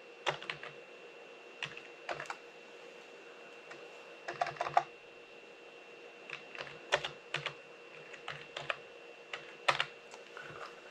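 Computer keyboard typing: scattered keystrokes in short irregular clusters, as a file name is typed in to save a CAD model.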